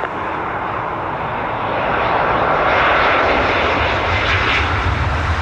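Jet airliner engines passing close while the plane comes in to land: a broad rushing noise that swells to its loudest about three seconds in, with a deep rumble building toward the end.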